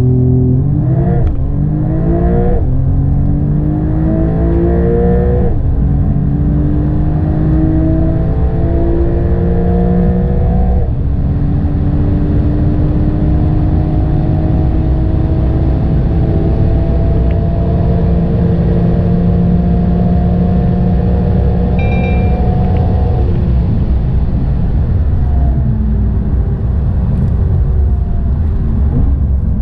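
Porsche 911 Carrera S flat-six engine at full throttle, climbing in pitch through a run of quick upshifts that come further apart as speed builds, then pulling slowly in a high gear for about ten seconds. About 23 seconds in, the engine note eases off and sinks under steady road and wind noise.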